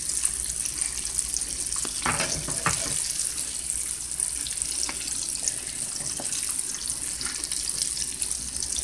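Salmon croquettes frying in hot oil in a pan: a steady sizzle. A few light clicks about two seconds in come from the fork against the pan as the croquettes are turned.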